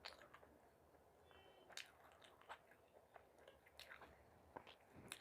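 Quiet, close-miked chewing and biting of food, with scattered sharp crunches and wet mouth clicks several times a second.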